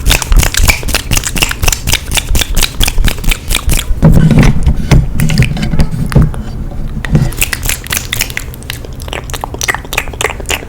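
ASMR mouth sounds close to the microphone: rapid wet clicks and pops of tongue and lips, several a second, with a lower, fuller stretch of mouth noise in the middle.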